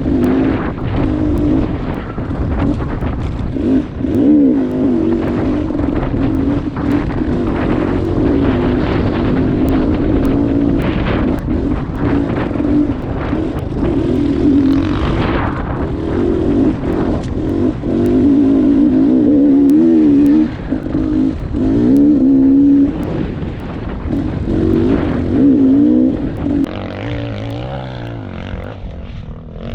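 Dirt bike engine revving up and down under load, its pitch rising and falling with the throttle; it eases off and gets quieter near the end.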